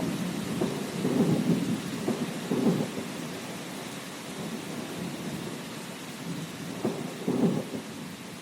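Thunderstorm: thunder rumbling in several rolls over steady rain. The rolls swell about a second in, again near three seconds, and near the end.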